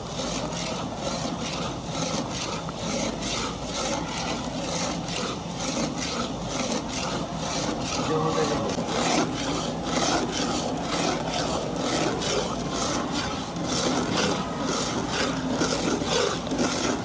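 Rhythmic rasping or scraping, about three even strokes a second, keeping a steady pace.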